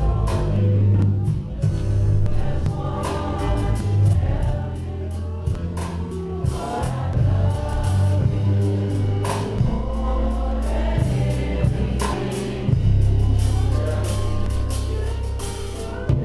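Gospel music: a choir singing over a band, with deep sustained bass notes and frequent cymbal and drum hits.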